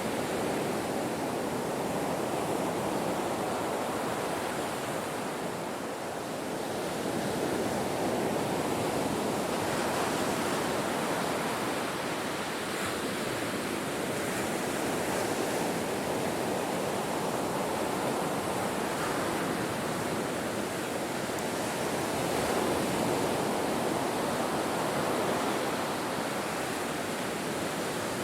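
Ocean surf washing on a shore: a continuous rush of water that swells and eases gently, with a slight dip about six seconds in.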